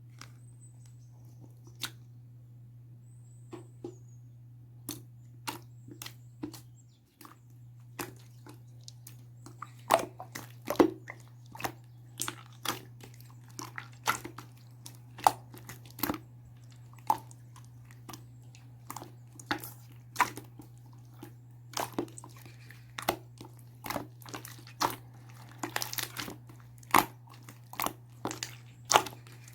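Irregular sharp clicks and taps, sparse at first and then a few a second from about ten seconds in, over a steady low hum.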